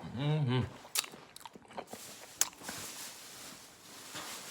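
Someone eating: a short low hummed voice sound at the start, then chewing with a few sharp clicks of a utensil.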